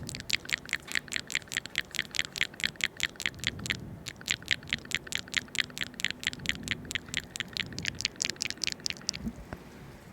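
Rapid, even tapping clicks, about five a second, with a brief pause a little under halfway, stopping about a second before the end.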